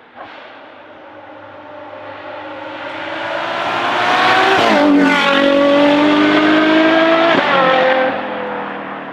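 Ferrari Purosangue's V12 through a Novitec race exhaust, accelerating hard and growing louder. The engine note climbs and drops sharply twice with quick upshifts, about halfway through and again near the end, then eases off slightly.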